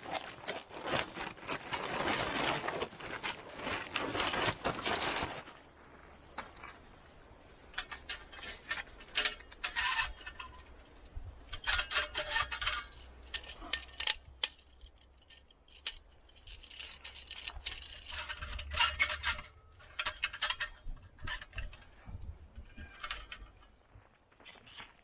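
Small metal objects being handled: scattered clicks, clinks and rattles. It opens with about five seconds of loud rustling, and a faint low hum runs underneath until near the end.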